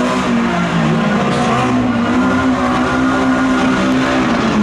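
Banger-racing car's engine held at high revs, a loud steady drone that holds its pitch for a few seconds and drops a little near the end.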